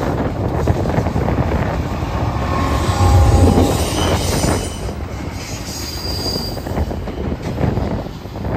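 Diesel-hauled double-stack intermodal freight train rolling past: the trailing Norfolk Southern locomotive goes by with a heavy low rumble, then the loaded well cars follow. Their steel wheels squeal on the rail with thin, high-pitched tones through the middle of the passage.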